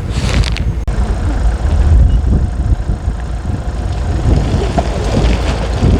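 Strong gusting wind buffeting the microphone: a loud, uneven low rumble that swells and drops irregularly.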